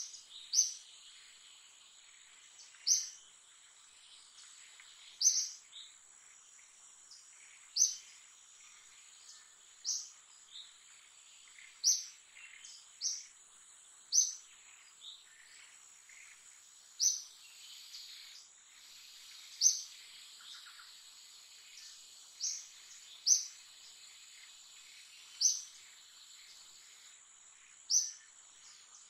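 A bird repeating a short, high chirp every two to three seconds over a steady high insect drone.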